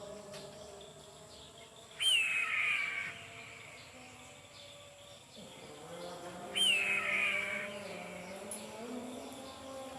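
Eagle calling twice, about two and six and a half seconds in: each call is a loud, sharp high screech that falls in pitch and trails off after about a second.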